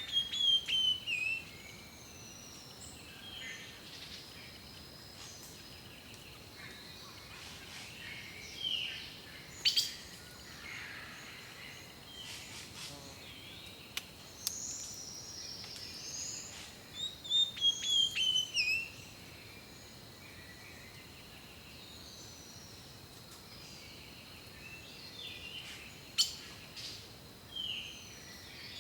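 Several birds singing and calling with short chirps and whistles. One bird repeats a loud phrase of quick notes falling in pitch, near the start and again about two-thirds of the way through. A thin, steady high tone runs underneath.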